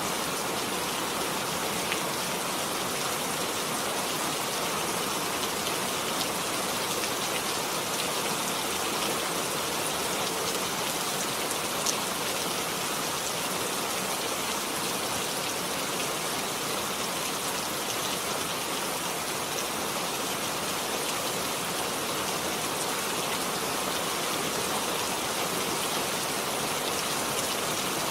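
Steady rain falling, an even hiss of many drops with an occasional sharper single drop.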